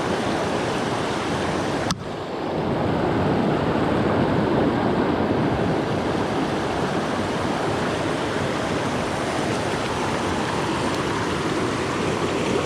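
Steady rushing water of a small mountain stream running high, with a sharp click and a brief drop in level about two seconds in.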